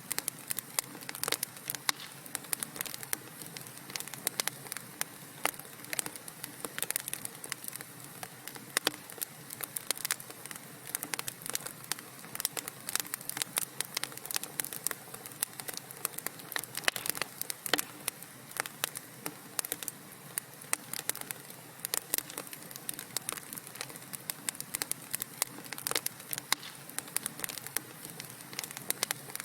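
Wood fire crackling: dense, irregular pops and snaps over a soft steady hiss, continuous throughout.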